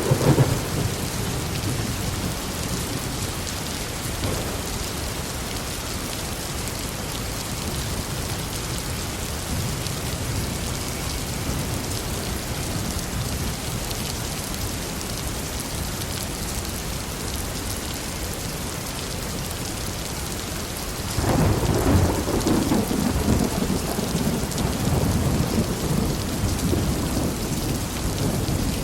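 Heavy rain falling steadily, with thunder: a rumble dying away in the first second, then a long, louder rumble of thunder starting about three quarters of the way through and running on to the end.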